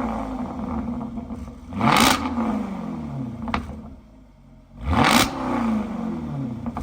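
Jaguar XKR-S GT's 5.0-litre supercharged V8 idling low and being blipped twice, about 2 seconds and 5 seconds in; each time the revs shoot up and then fall back to idle.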